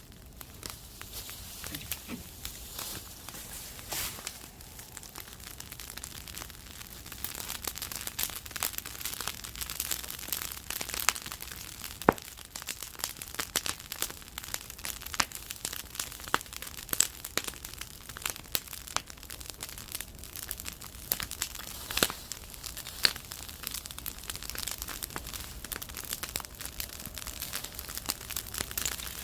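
Yard bonfire of dried chili pepper stalks crackling, with irregular sharp pops and snaps over a steady hiss. The loudest pop comes about twelve seconds in, with another strong one a little past the twenty-second mark.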